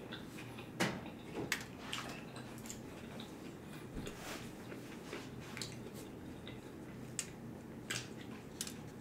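Close-miked chewing of a mouthful of tortilla wrap with lettuce: wet mouth sounds with irregular soft clicks and smacks.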